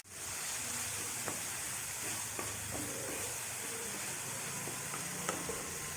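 Ground onion paste frying in hot oil, a steady sizzle while it is stirred, with a few faint clicks of the stirring utensil against the pan.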